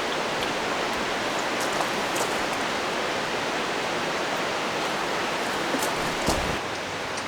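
Steady rushing of a mountain stream, with a few faint ticks over it; the rush dips slightly near the end.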